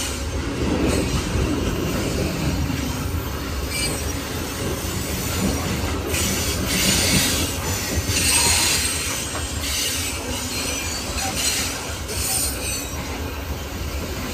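Coal train cars rolling past: a steady rumble of steel wheels on rail, with higher-pitched wheel screech rising a few times.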